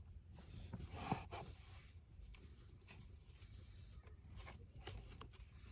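Faint rubbing and scraping of a cabin air filter being worked against its plastic housing, with light clicks and one sharper knock about a second in.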